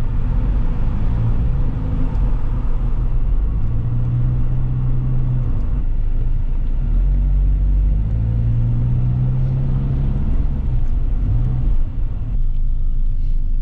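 1993 SAAB 900 Turbo S's 2.0-litre turbocharged 16-valve four-cylinder engine and road noise while driving. The engine note holds steady for stretches, and the level dips briefly near the end.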